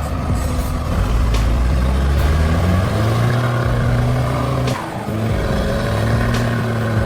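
Heavy truck's diesel engine running under load, its pitch climbing for a second or two as it accelerates. There is a short break about five seconds in, after which a truck engine runs steadily again.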